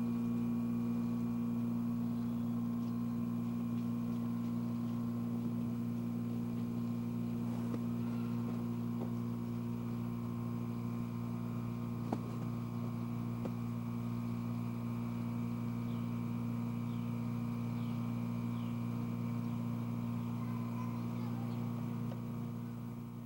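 A steady low electrical hum with a few faint clicks, fading out at the very end.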